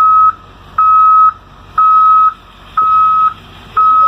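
Vehicle reversing alarm on a backing school bus, beeping one steady tone about once a second, each beep about half a second long.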